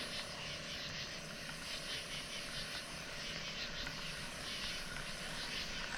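Steady rushing noise of water pouring over a spillway, with a faint high buzzing that comes and goes every few seconds.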